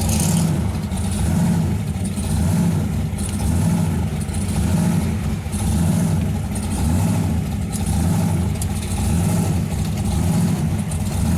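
Car engine running steadily, its sound swelling and easing about every second and a half.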